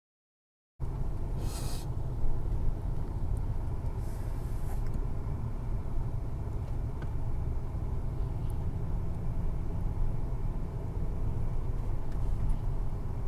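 Motorcycle riding along, engine and wind making a steady low rumble on the microphone. It cuts in abruptly just under a second in, with a couple of brief hisses over it.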